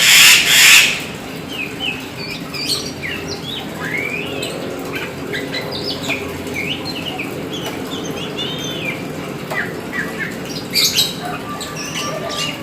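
Black oriental magpie-robin (kacer hitam) singing a fast, varied run of short whistled notes that sweep up and down. There is a loud noisy burst at the start and a shorter one about eleven seconds in, over a steady low hum.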